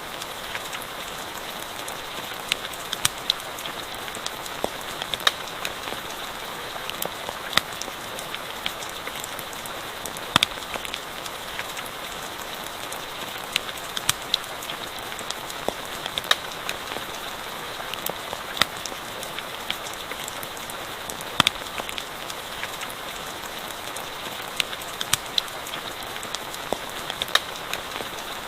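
Steady rainfall with a campfire crackling: sharp, irregular pops and snaps over an even hiss of rain.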